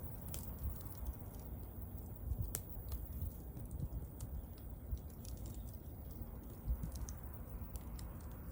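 Wood bonfire crackling, with irregular small pops over the low rumble of the flames and one sharper pop about two and a half seconds in.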